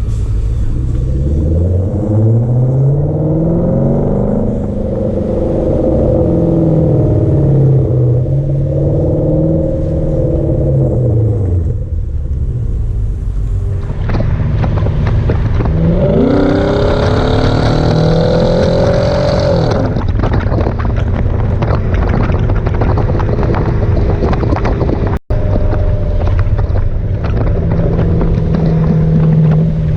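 Hyundai Genesis sedan's V8 through a muffler-delete exhaust, pulling up through the revs several times with the pitch dropping back at each shift. The hardest pull comes about sixteen seconds in and falls away after about four seconds. The engine then settles into a steady cruising drone, with a momentary gap in the sound about twenty-five seconds in.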